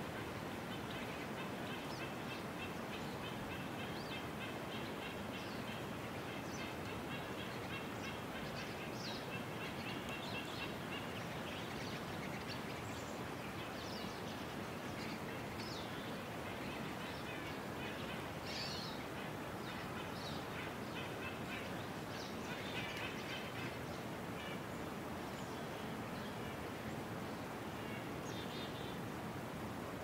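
Small birds chirping and trilling on and off over a steady outdoor hiss.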